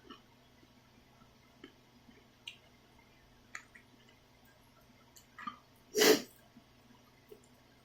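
Close-up eating sounds of black bean instant ramyun: soft scattered mouth clicks and small wet chewing noises, with one loud short slurp about six seconds in.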